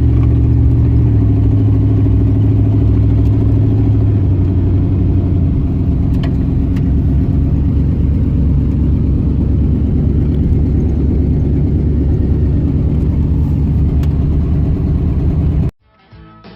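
A vehicle driving: a steady low engine drone with road rumble, the engine's hum dropping in pitch about five seconds in. It cuts off abruptly near the end, and faint music starts.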